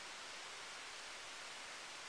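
Steady, faint, even hiss with no distinct events.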